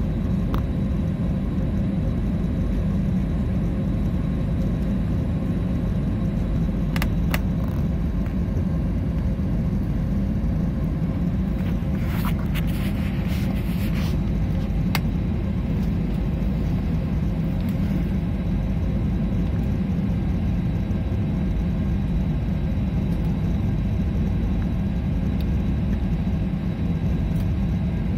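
Steady low rumble of an airliner's engines and airframe heard from inside the passenger cabin, with a few faint clicks about seven, thirteen and fifteen seconds in.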